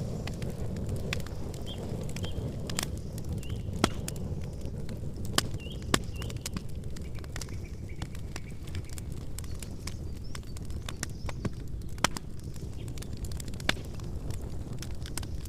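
Campfire burning: a steady low rumble with irregular sharp crackles and pops. The loudest pops come about four, five and a half, six and twelve seconds in.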